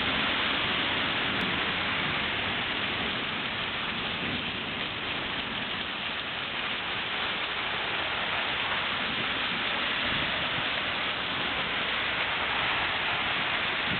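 Heavy rain pouring down onto pavement, a dense, steady hiss.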